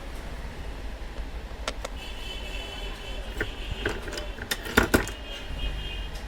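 Light clicks and small metallic clatter from handling an electric kettle's parts and tools, over a steady low hum, with a cluster of sharper knocks about five seconds in.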